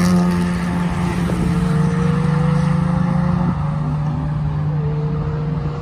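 Car engines running on a race circuit: one engine slowly climbing in revs as it accelerates, with a gear change near the end, over a steadier engine note that drops in pitch about halfway through.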